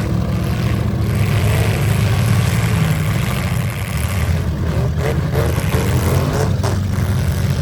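Several demolition derby cars' V8 engines running and revving together, a loud, steady low rumble.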